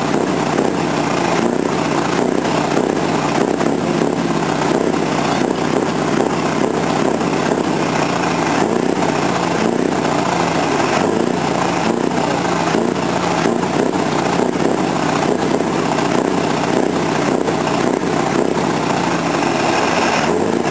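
Scania R620's 16-litre V8 diesel running through an open, free-flow exhaust, its deep note rising and falling slightly as the revs change.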